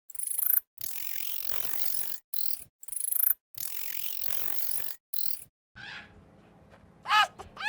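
Scratching and rustling noise in a few short stretches, broken by abrupt cuts. Near the end, over a low hum, come short high yelping animal calls.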